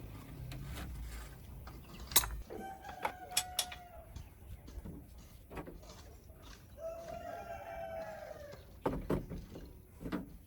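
A rooster crowing twice, each crow lasting about a second and a half, among scattered sharp knocks.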